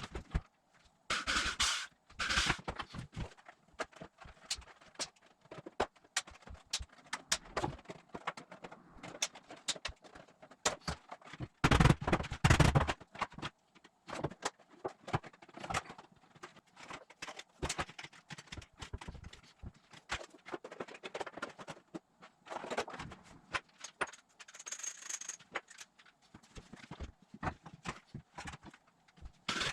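Rapid, irregular sharp clicks and crackles, with louder clusters of knocks about a second or two in and again near the middle.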